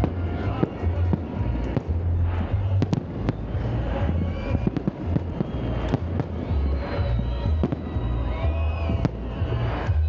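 Fireworks salute: a dense, continuous run of bangs and crackling bursts, with music in the background.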